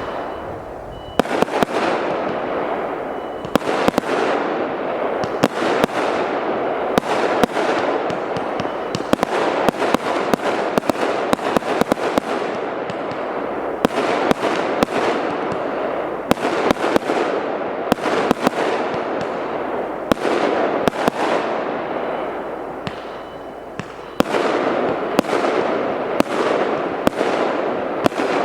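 A 200-shot, 0.8-inch fireworks cake firing in rapid succession: sharp bangs, often several a second, over a continuous hiss and crackle. The barrage eases briefly about a second in and again a little past three-quarters of the way through, then picks back up.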